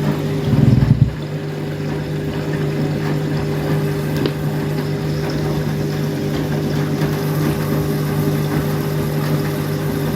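Washing machine filling with water: a steady low hum, with water running into the drum. A brief louder low rumble comes about half a second in.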